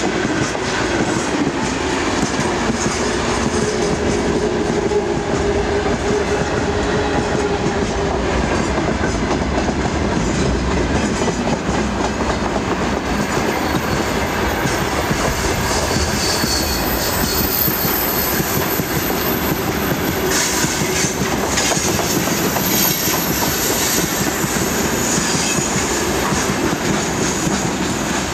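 Freight train wagons rolling past at close range, their wheels clattering over the rail joints above a steady rumble. From about halfway through, a thin high-pitched squeal of wheel flanges grinding against the rail on the curve runs alongside.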